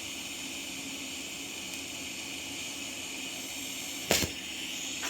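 Steady hiss from a TIG welding setup, with a low hum under it and one sharp metallic clank about four seconds in.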